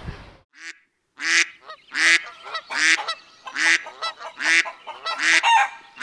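Honking bird calls repeated over and over: a loud honk about every three-quarters of a second, with quieter calls between. They stand out against a dead-quiet background.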